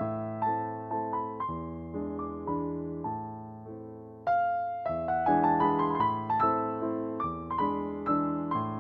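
Background piano music: a gentle melody of single struck notes over low chords, fading softer until about four seconds in, then picking up again more loudly.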